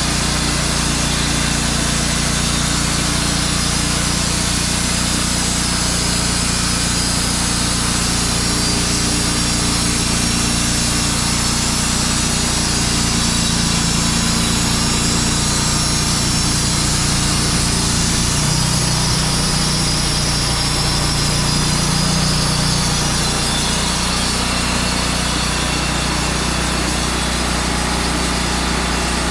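Wood-Mizer band sawmill running steadily, its engine under load while the band blade cuts a pine log, with a steady high hiss from the cut. The engine note shifts slightly a little past halfway.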